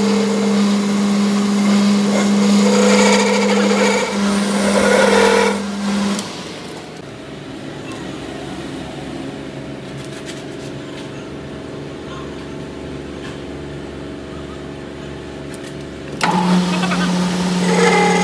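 A motor-driven shop machine running with a steady hum and hiss. It shuts off about six seconds in, leaving a quieter background hum, and starts up again near the end.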